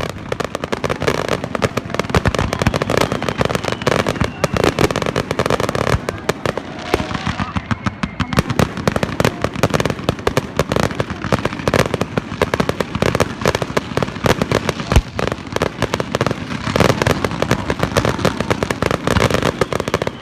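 Fireworks going off: a dense, continuous crackling of rapid pops, with one heavier bang about fifteen seconds in.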